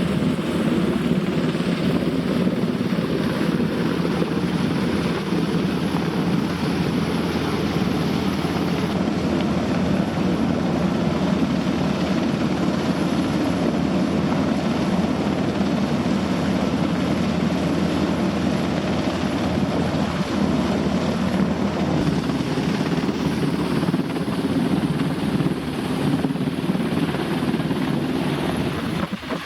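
NH90 helicopter's rotors and twin turbine engines running steadily and loudly close by, a continuous rotor beat with no break.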